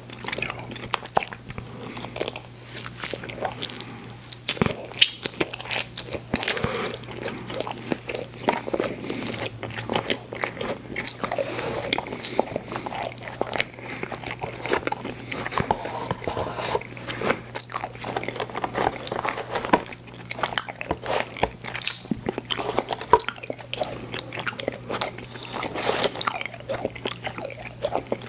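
Close-miked eating of candy: biting and chewing with many irregular crisp crackles and wet clicks of the mouth. A steady low hum runs underneath.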